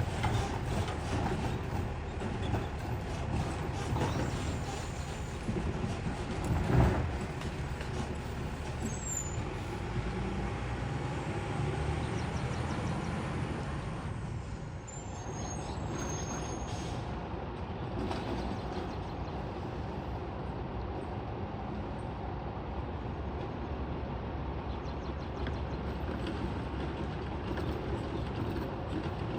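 Garbage truck with a Heil STARR automated arm, its engine running steadily, with one sharp bang about seven seconds in.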